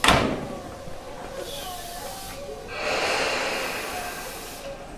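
Station sounds of an electric commuter train: a sharp thud at the start, then about three seconds in a loud hiss of released compressed air lasting about two seconds.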